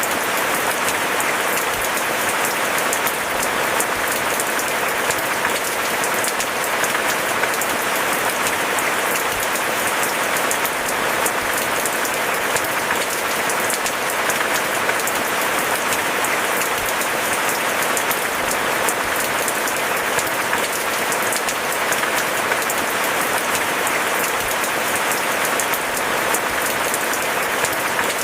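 Steady heavy rain falling, a dense even spray of drops that keeps the same level throughout.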